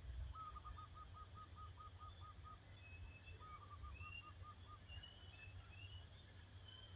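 Faint birdsong: a bird repeats one short note about five times a second in two runs of a couple of seconds each. Thin, higher whistled notes from a second bird come in during the second half. A steady low rumble sits underneath.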